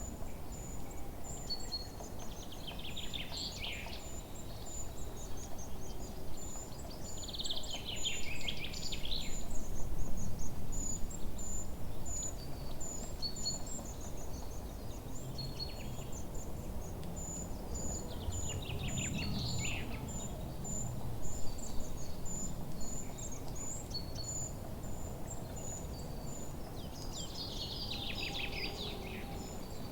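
Forest songbirds singing: four separate songs, each a falling trill of about a second and a half, over a continuous high, fast chirping and a low background rumble.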